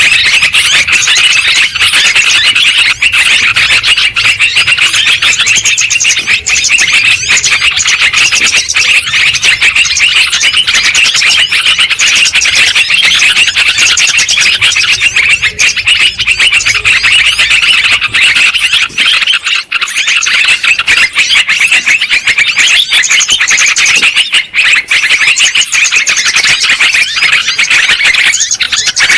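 Yellow-vented bulbuls (terucukan) calling noisily: a loud, dense, unbroken chatter of rapid bird calls.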